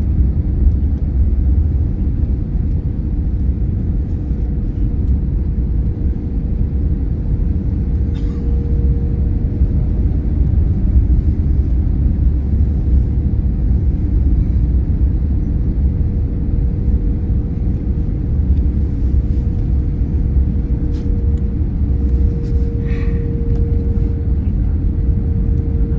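Airliner on approach heard from inside the cabin: a steady deep rumble of engines and airflow with a steady hum running through it, and a few faint clicks.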